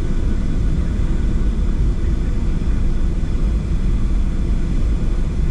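Steady low rumble inside the cabin of a Boeing 737-700 on the ground before takeoff, even throughout with no distinct events.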